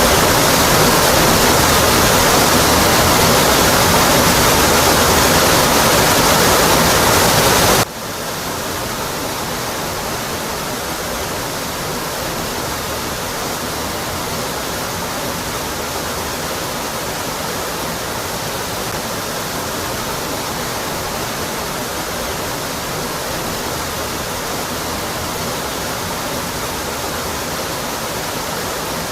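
Rocky Brook Falls waterfall, a steady rush of falling water. About eight seconds in, the sound suddenly drops quieter, with less low rumble, as at an edit between recordings, then stays steady.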